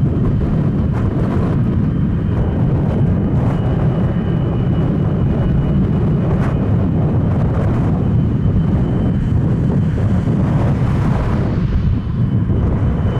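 Steady loud rumble of the DC-9-33(F)'s twin Pratt & Whitney JT8D-9 turbofan engines, with a faint steady high whine above it.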